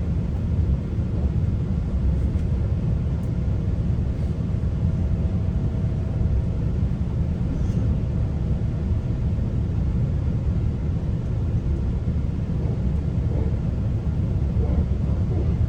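Steady low rumble of a GO Transit commuter train running along the track, heard from inside the passenger coach, with a faint steady hum over it.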